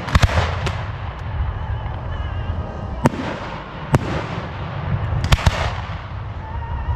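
Fireworks display: shells bursting in sharp bangs, a quick cluster in the first second, single bangs about three and four seconds in and a close pair about five and a half seconds in, over a continuous low rumble.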